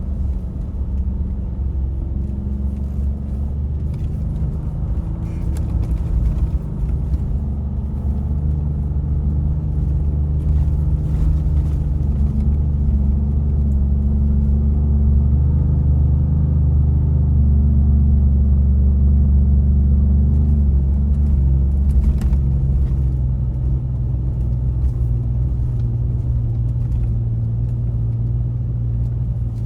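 Truck engine running under way, a steady low rumble whose pitch steps up and down a few times.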